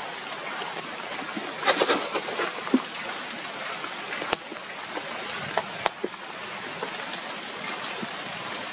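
Steady rain hissing on leaves and ground, with a few sharp taps scattered through it and a brief louder rustle about two seconds in.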